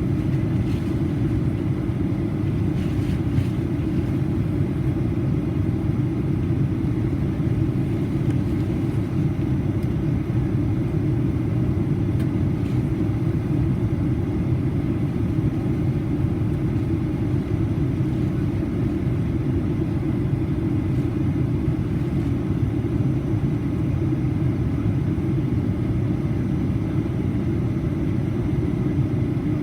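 Steady low rumble inside the cabin of a Boeing 737-800: engine and airflow noise, even in level throughout.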